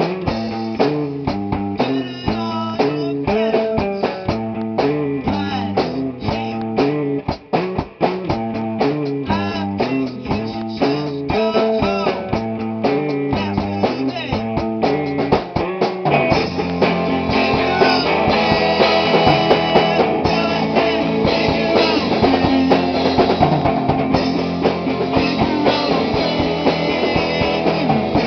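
Rock band playing live in rehearsal: a repeating guitar riff over drums, growing louder and fuller with cymbals about sixteen seconds in.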